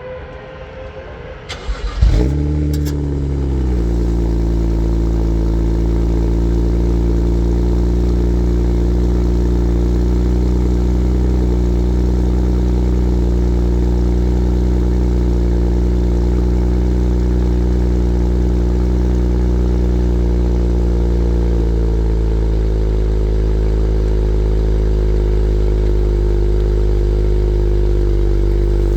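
BMW 135i's turbocharged straight-six cold-starting: a brief crank, then it catches about two seconds in with a loud rev flare. It falls back within a couple of seconds to a steady, fast cold idle, and the idle eases down a little about three quarters of the way through.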